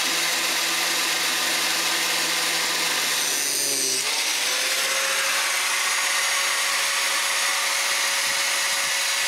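Electric power tool running steadily under load, working down an oversized old metal hinge part. Its pitch dips about four seconds in, then holds steady.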